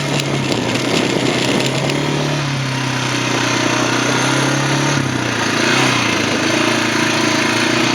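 Quad (ATV) engine idling steadily, its pitch drifting up and down a little a couple of times.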